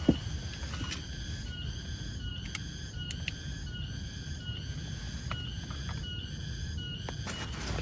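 Short, slightly falling animal calls repeating steadily through the night, over a continuous low rumble and a few sharp ticks.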